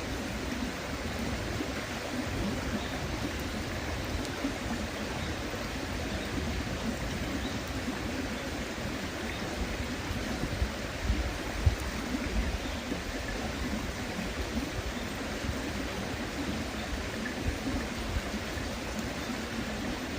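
River water flowing steadily over stones, an even rushing murmur, with a few brief low thumps about halfway through.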